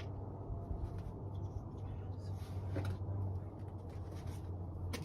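Scattered light clicks and knocks of hands working on car parts, over a steady low hum.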